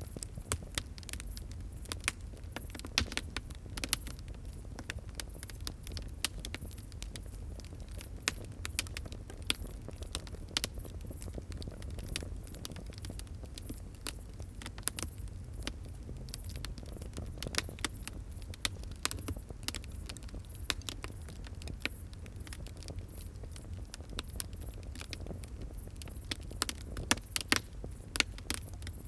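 Fire crackling: frequent, irregular sharp pops and snaps over a steady low rumble.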